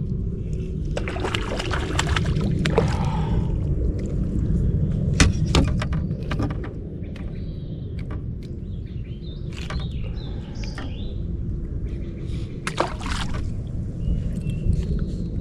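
Water sloshing and splashing around a kayak over a steady low rumble, with scattered clicks and knocks.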